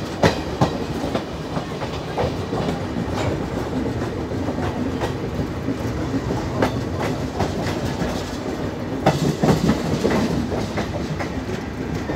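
Two trains running side by side on parallel tracks, a passenger express and an NMG automobile-carrier goods rake, heard from an open coach window: a steady rail rumble with clickety-clack of wheels over rail joints. Sharp clacks come now and then, with a denser run of them about nine seconds in.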